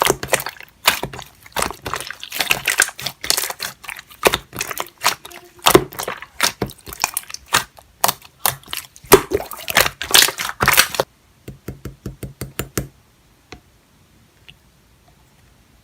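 Clear slime being squished and pressed by hand, making dense runs of wet clicks and pops. The clicking thins out after about eleven seconds and stops about thirteen seconds in.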